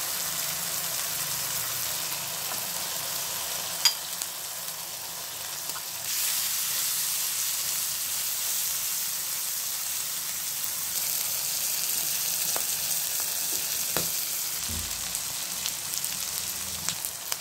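Oil sizzling in a karai as spiced masala and then chopped goat tripe fry in it, stirred with a spatula. A sharp click comes about four seconds in, and the sizzle gets louder from about six seconds in.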